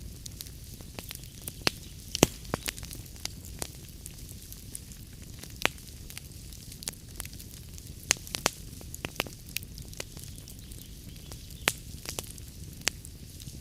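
Log fire in a fireplace crackling, with irregular sharp pops and snaps over a steady low rumble and hiss of the flames.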